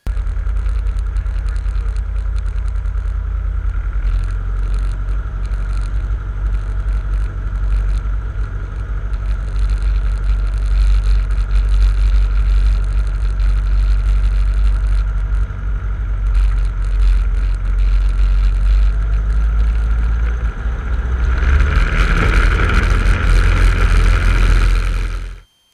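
Cessna 150's four-cylinder Continental O-200 engine and propeller running steadily, heard from inside the cockpit as a heavy low drone with a steady higher hum. It grows louder near the end, then cuts off abruptly.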